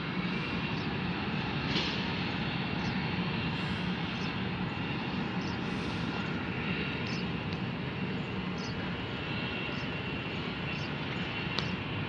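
Jet airliner engines running with a steady, even noise that neither rises nor falls.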